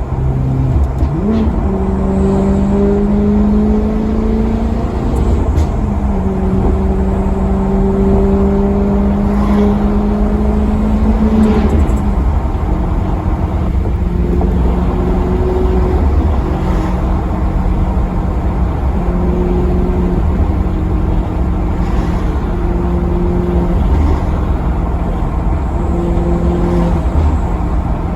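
Maserati Quattroporte Sport GT's V8 engine accelerating: the engine note climbs sharply about a second in and holds at high revs for about ten seconds. It then drops back and carries on at lower, shifting revs, changing pitch every couple of seconds, over a steady low rumble.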